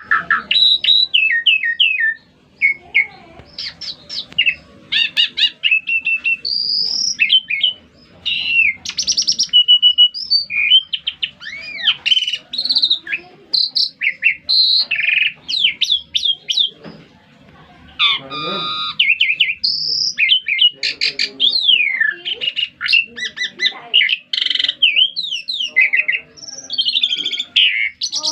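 Songbird singing a fast, varied song of whistles, rapid chirps, sweeping slurs and trills, with brief lulls between bursts. This is the kind of 'gacor' (in full song) recording played to set caged birds singing.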